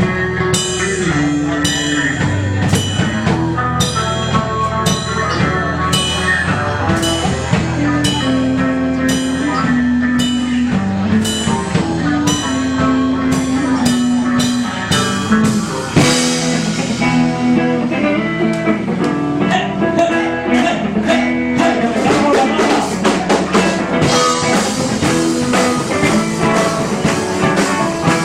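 A live rock band plays an instrumental introduction: guitar and drum kit over a low line that moves note by note, with a steady beat. A cymbal crash comes about halfway through, and the cymbals grow busier near the end.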